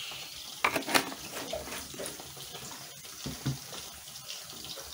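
Chicken pieces frying in oil, a steady sizzle, with two sharp knocks about a second in.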